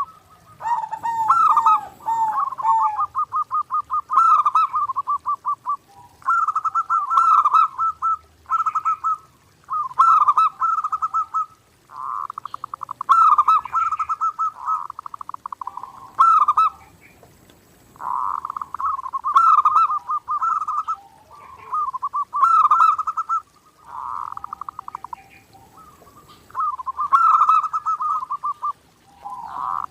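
Zebra dove (perkutut) singing steadily: about a dozen cooing phrases, each a quick run of repeated notes, with short pauses in between.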